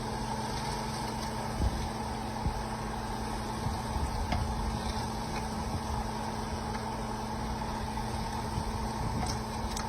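Drilling rig's engines running steadily with a constant drone, with a few short metallic knocks from work on the rig floor.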